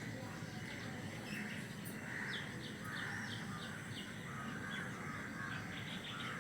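Several birds chirping and calling in short repeated notes, over a steady low background noise.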